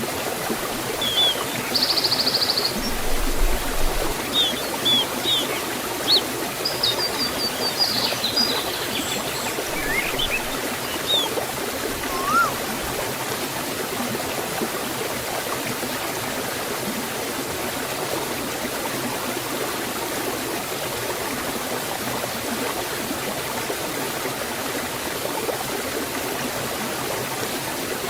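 A forest stream or small waterfall flowing with a steady rush. Birds chirp and trill over it during the first half, then only the water is heard.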